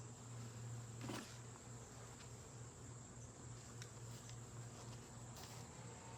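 Honeybees from an open hive humming steadily, with a faint knock about a second in.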